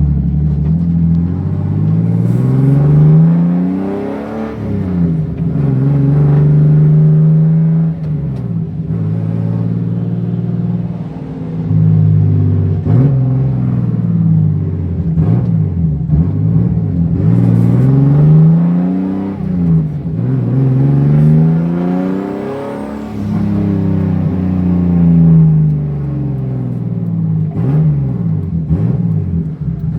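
BMW E36 M3 race car's straight-six engine driven hard, heard from inside the car. Its pitch climbs again and again, drops sharply at gear changes and falls away when the driver lifts off.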